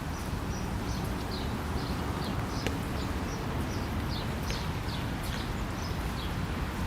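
Footsteps on a wet park path at an even walking pace, about two steps a second, over a steady low rumble of distant city traffic.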